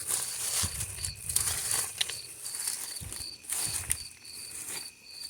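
Irregular scraping and rustling from hand yard work in soil and plants, over insects chirping in an even rhythm about twice a second.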